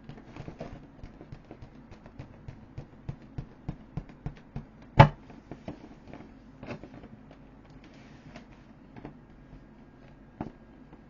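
An inflatable vinyl toy boat being handled: a run of light taps and clicks, about three a second, with one sharp loud knock about five seconds in and a couple of smaller knocks later.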